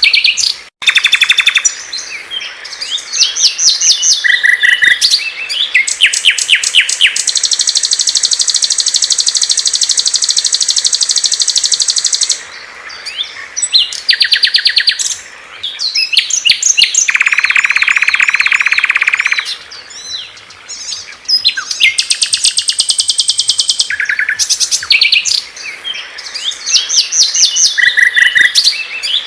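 Small songbirds singing in a spliced sequence: rapid high chirps and trills, with two long, steady buzzing trills, one high and one lower. There is a brief dropout just under a second in, where two recordings are joined.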